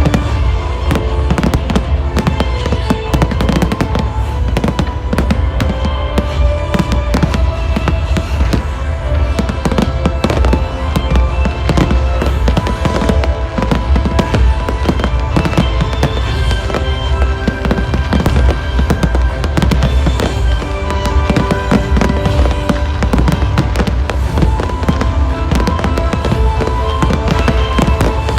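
Fireworks display going off almost without pause, a dense run of bangs and crackles over loud music, with a heavy low rumble underneath.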